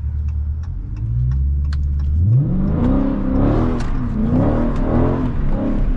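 Dodge Charger Scat Pack's 392 HEMI V8 running low and steady, then revving hard about two seconds in and rising and falling in pitch as the car is slid through a wet turn.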